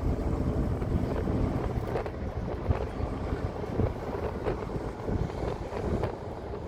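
Wind buffeting the microphone, a steady low rumble with small irregular flutters.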